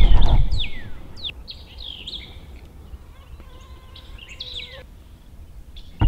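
Songbirds calling: a run of quick downward-slurred whistles, thinning out after the first couple of seconds. A low rumbling noise fades away within the first second.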